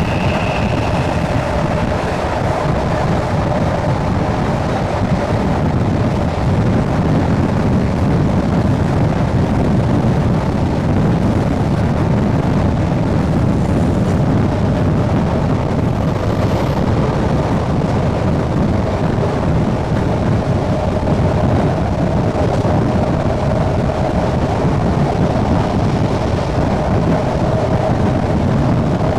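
SNCB AM80 electric multiple unit running at speed between stations, its traction motors and wheels on the rails making a steady rumble with a faint steady hum above it. Wind is buffeting the microphone.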